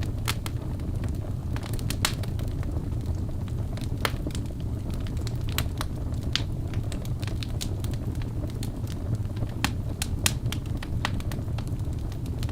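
Birch logs burning in a fireplace: irregular sharp crackles and pops over a steady low rumble of the flames, with a few louder pops about ten seconds in.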